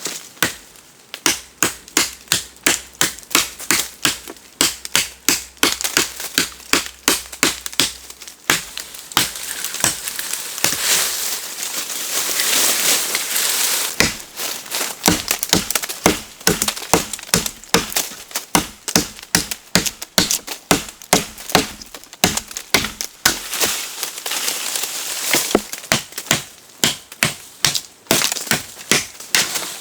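Rapid, regular chopping strikes, about two to three a second, of a hand blade cutting into wood, with a short break in the middle.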